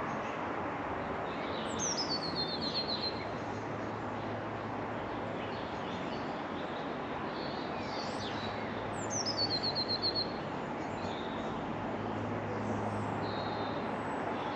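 A songbird sings twice, each time a short phrase of high notes that falls quickly into a rapid trill of repeated notes. A steady hiss of background noise runs underneath.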